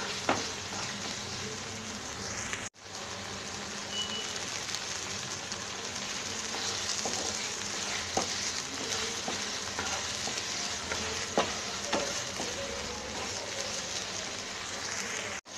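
Chopped potatoes and spinach sizzling steadily in a pan as they are stirred with a wooden spatula, with occasional light scrapes against the pan. The sound drops out for a moment about three seconds in.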